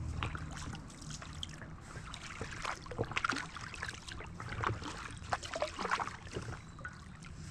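A paddle dipping into river water, with irregular splashing and trickling as water runs off the blade.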